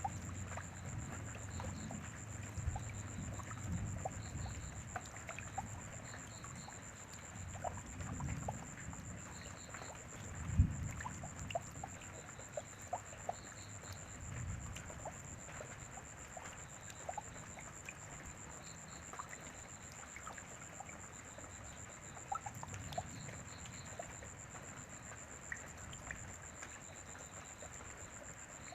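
Rain dripping, with scattered single drops ticking over low rumbles that die down after the middle, and one sharp thump about ten seconds in. A steady high whine runs underneath.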